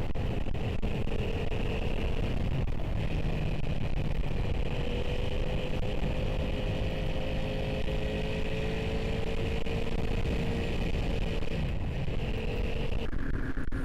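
Motorcycle engine running at a steady cruising pace, heard from on board the bike along with road noise. The engine note climbs slightly through the middle and eases back near the end.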